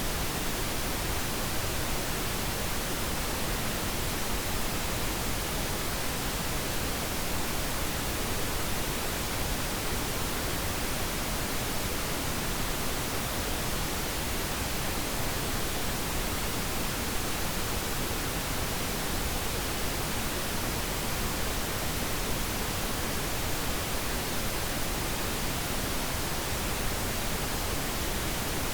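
Steady, unchanging pink noise: an even hiss across the whole range, played as a sleep sound.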